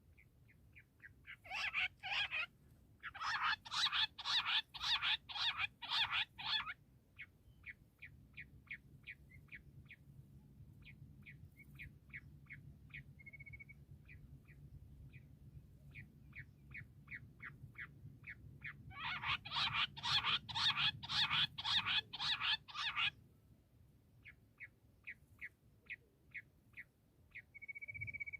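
Bush quail calling: two loud bouts of fast, rapidly repeated notes, separated by softer trains of quick, evenly spaced notes and a brief whistled note.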